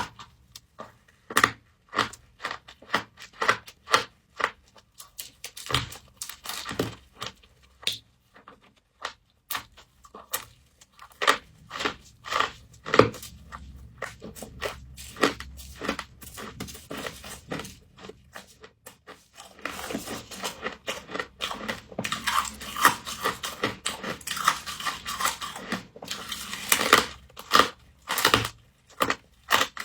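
Frost crunching and crackling as it is bitten and chewed: many sharp crunches, coming thicker from about two-thirds of the way in.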